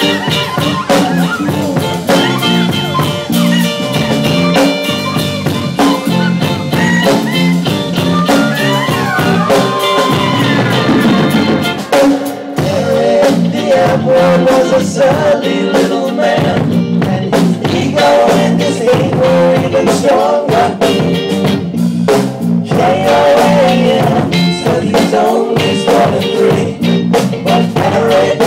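Jam band playing live in an instrumental stretch of the song: drum kit keeping a steady beat under guitar and other instruments, with some bending, gliding lead notes.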